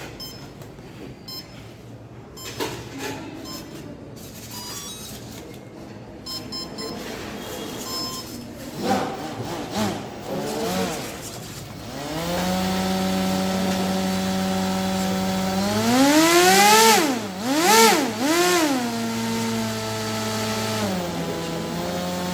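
Small clicks and handling noises, then a homemade model airplane's electric brushless motor and propeller spin up to a steady buzzing hum about halfway through. The throttle is run up and down a few times, sweeping the pitch, before it holds steady again.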